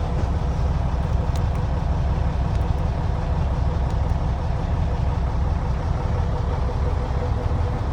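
Scania horsebox lorry's diesel engine idling steadily, a low, even rumble.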